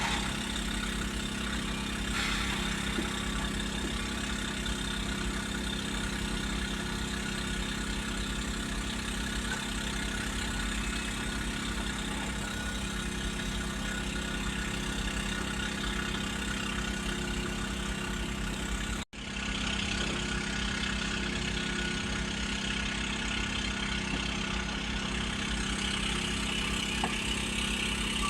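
Heavy diesel engines of an excavator and trucks running steadily at low revs, with a brief cut in the sound about two-thirds of the way through.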